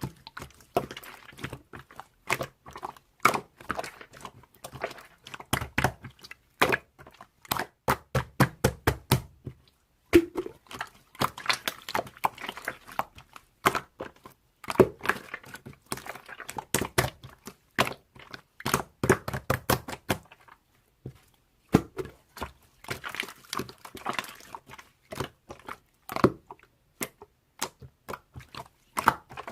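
Longboard clattering: a run of irregular knocks and clacks as the board and its wheels hit and roll over the ground.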